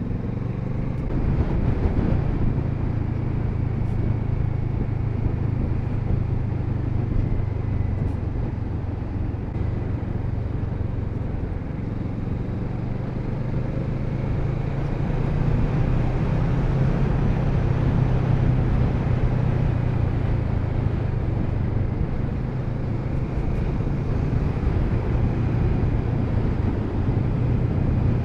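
Kawasaki Z650RS parallel-twin engine running on the move, with wind and road noise around it. The engine note rises about two seconds in and again about halfway through as the bike pulls.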